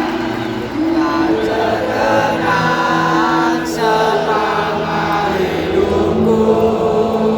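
A large stadium crowd of football supporters singing a chant together in unison, with long held notes.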